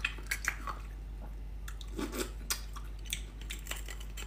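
Eating beef bone marrow: soft, wet chewing with a scatter of small sharp clicks, and a metal spoon scraping marrow out of the bone.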